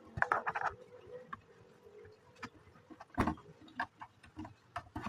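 Plastic Lego bricks clicking and rattling as pieces are handled and pressed together: a string of short sharp clicks, bunched in the first second, with a louder one about three seconds in.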